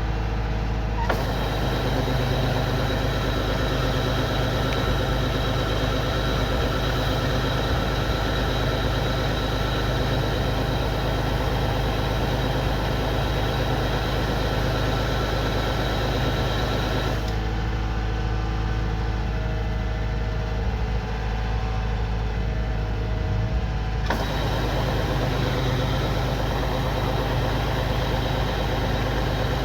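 Kubota rice combine harvester running steadily, its engine hum underneath the noise of the cutting and threshing machinery; the higher noise cuts in abruptly about a second in, drops away for several seconds past the middle, then returns.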